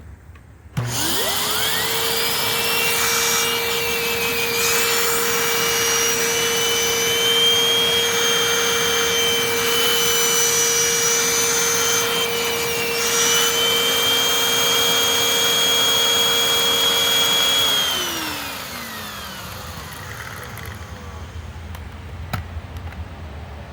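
Hoover WindTunnel upright vacuum cleaner's motor switched on: a whine rising to speed about a second in, running steadily for about seventeen seconds, then switched off and winding down with a falling pitch.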